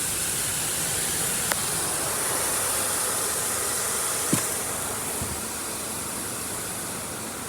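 Spot-free rinse water spraying steadily onto a car from an automatic in-bay car wash's gantry, a steady hiss heard from inside the car, with a couple of light knocks.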